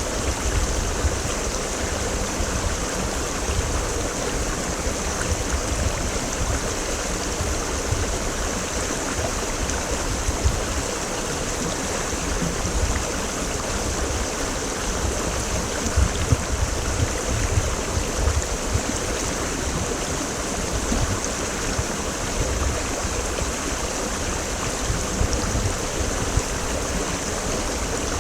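Mountain stream (quebrada) rushing steadily over rocks, with a deep rumble beneath the splashing.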